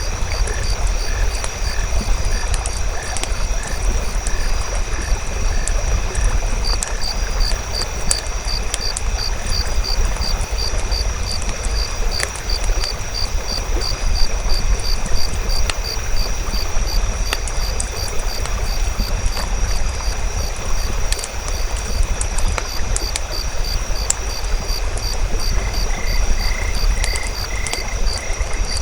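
Night nature ambience: frogs and insects calling in a steady chorus, with evenly repeated high chirps, over a deep low rumble, with scattered sharp crackles from a campfire.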